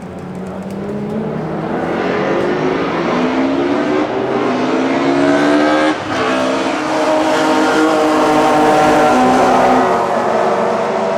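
Classic DTM touring-car engines accelerating hard past the grandstand, rising in pitch, with a quick upshift about six seconds in. They grow louder toward the end and then start to fade.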